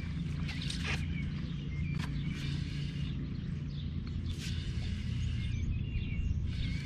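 Birds chirping in short calls over a steady low rumble, with a few brief scratchy sounds.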